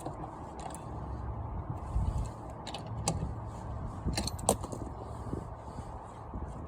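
A few sharp metallic clinks and knocks, two of them close together about four seconds in, over a low rumble, as hand tools and parts are handled at a car's wheel.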